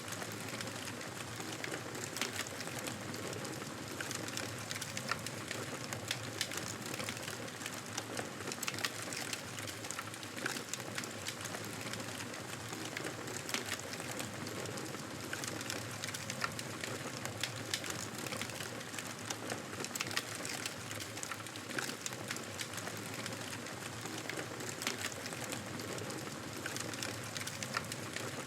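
Campfire burning: a steady hiss of flames, with many sharp crackles and pops from the burning wood.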